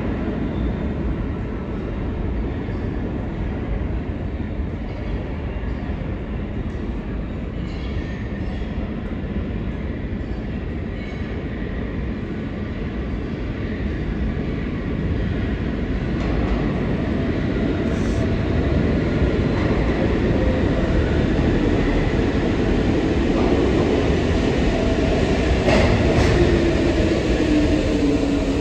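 New York City subway (A) train rumbling through the underground station, growing louder over the second half, with a falling whine near the end.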